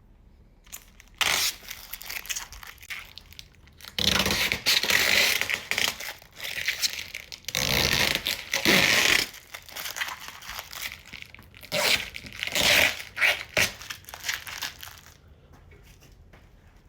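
Plastic protective wrapping being pulled off a new car's panels and trim, tearing and crinkling in several loud irregular bursts, with quieter handling in between.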